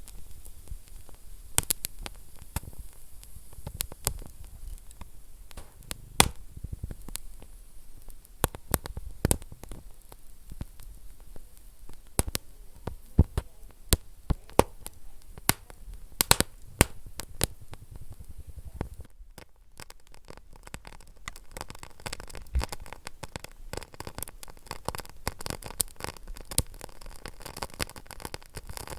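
Wood fire crackling in a fireplace, with irregular sharp pops and snaps over a low steady hiss. About 19 seconds in the crackle briefly drops away, then comes back denser and finer.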